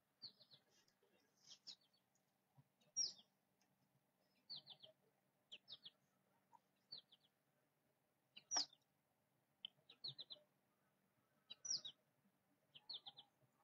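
Faint bird chirps: short, high, quickly falling notes in clusters of two to four, repeating about every second or so.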